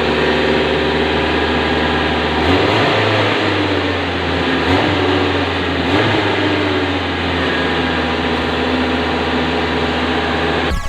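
Mitsubishi Mini Pajero engine running steadily at idle, with a few brief rises in engine speed about two and a half, five and six seconds in; it now keeps running after the fuel pump's broken ground wire was bypassed.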